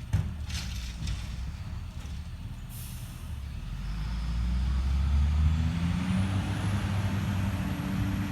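Recycling truck: a few clunks, then a short hiss of air. After that the engine rumble swells and rises in pitch to a higher steady speed, with a high whine gliding up and holding above it.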